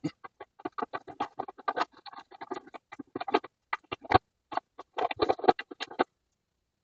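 Tools being handled during car repair work: a rapid, irregular run of clicks and scrapes that stops abruptly about six seconds in.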